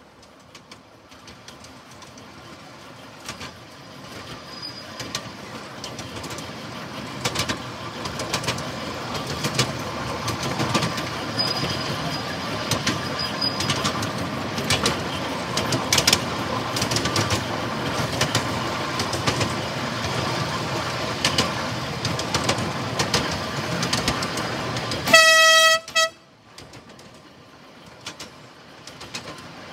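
Miniature railway train running along the track, its wheels clicking over the rail joints and the running growing louder over the first few seconds. Near the end the locomotive gives one short, high toot lasting under a second.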